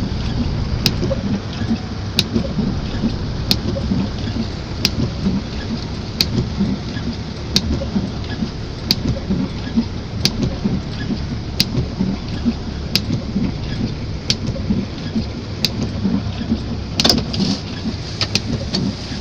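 Heavy rain falling, with a dense low rumble and crackle. A sharp click repeats about every second and a half, and there is a brief louder burst near the end.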